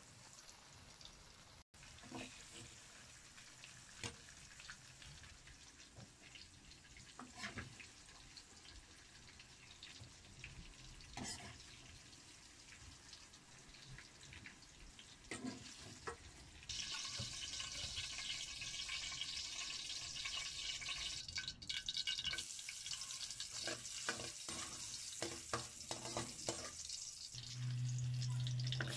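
Food frying in oil in a metal wok: a faint sizzle with occasional scrapes and taps of a metal ladle, then about halfway through a much louder, steady sizzle as chopped garlic fries in hot oil. A low hum joins near the end.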